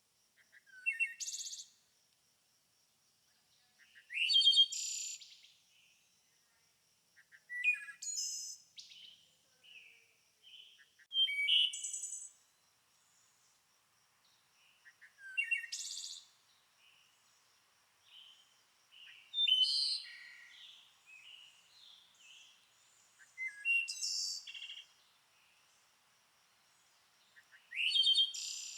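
Songbird singing in repeated short phrases, one about every three to four seconds. Each phrase is a quick upward sweep into a burst of high notes, with softer chirps in between.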